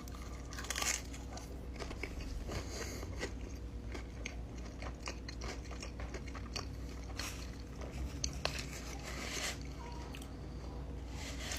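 Close-up mouth sounds of someone chewing a bite of baked empanada, with short crisp crunches and wet chewing clicks at irregular intervals.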